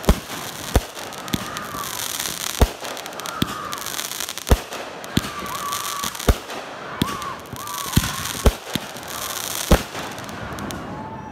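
Consumer fireworks going off: about a dozen sharp bangs, one every second or so, with bursts of crackling between them.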